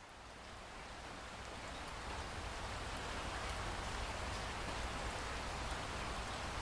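Steady rain falling, fading in from silence and growing steadily louder, with a low rumble underneath.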